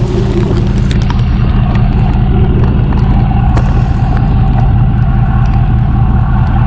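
Tow truck's engine running steadily, a loud low hum.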